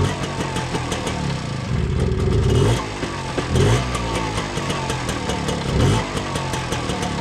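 A 50cc two-stroke Puch Austro Daimler moped engine running on its first cold start in 39 years. It idles with a fast ticking beat and is revved up and back down a few times, one longer rev about two seconds in.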